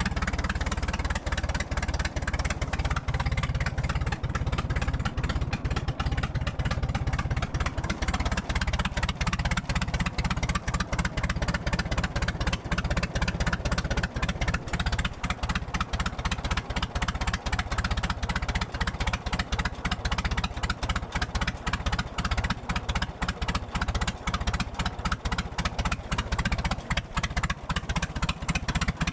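Tractor engine running steadily, its exhaust firing in rapid, even pulses.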